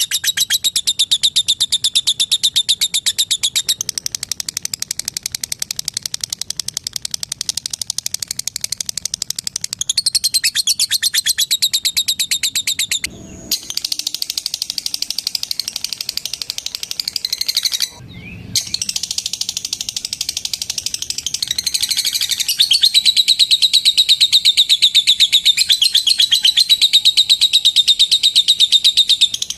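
Lovebird giving its long, rapid chattering trill: very fast repeated high notes in long unbroken runs, breaking off briefly twice and louder near the end.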